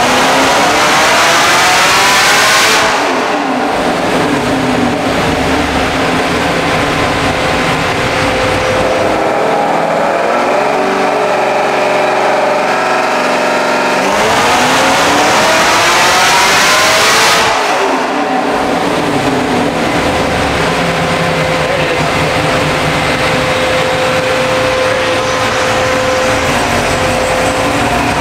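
Supercharged 6.2-litre LT4 V8 of a Camaro ZL1 making wide-open-throttle pulls on a chassis dynamometer. The revs climb steadily, are cut off about three seconds in and wind down, then climb again in a second pull past the middle before dropping back.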